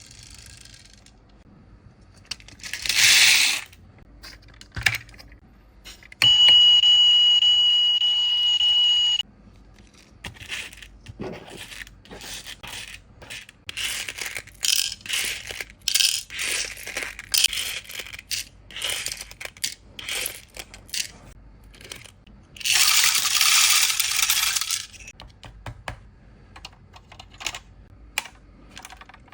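Scale-model toy trucks being handled, with many small clicks and clinks of their metal and plastic parts. A steady high electronic beep sounds for about three seconds, and there are two short hissing bursts.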